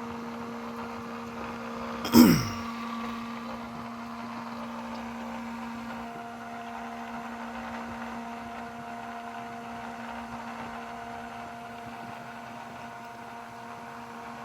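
Small sump pump running with a steady electric hum while it clears water from an HVAC drain pan. A brief loud sound that drops sharply in pitch comes about two seconds in, and a second, higher steady tone joins about six seconds in.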